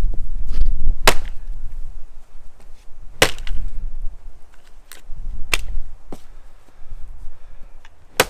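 Axe chopping a small tree: about six sharp strikes of the axe into wood at uneven intervals, some hard and some lighter. A low rumble sits under the first second or so.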